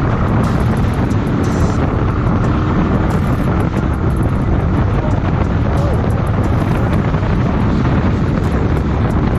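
Motorcycle riding at speed: a steady loud rush of wind on the microphone over the engine and road noise.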